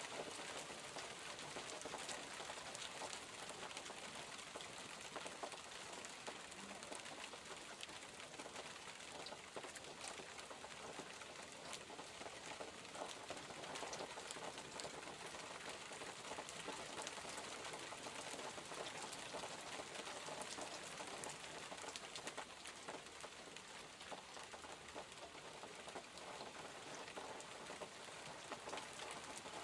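Steady rainfall, a dense even hiss with many individual drops tapping throughout.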